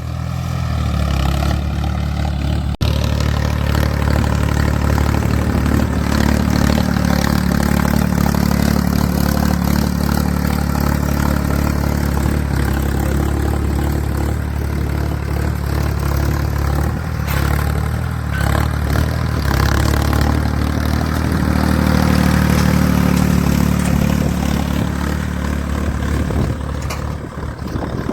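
Ford 3600 tractor's three-cylinder diesel engine running steadily, with a brief click about three seconds in.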